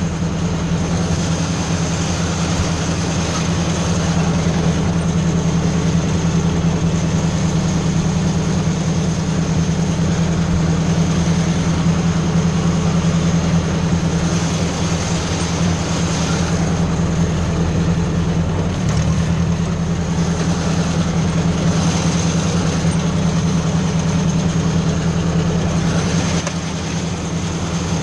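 Ford 600 tractor's four-cylinder engine running steadily, with a brief change in its note about two-thirds of the way through.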